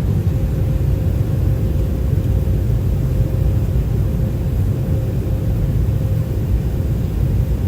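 Steady low rumble of an airliner's engines and rushing air, heard from inside the passenger cabin, with a faint steady hum on top.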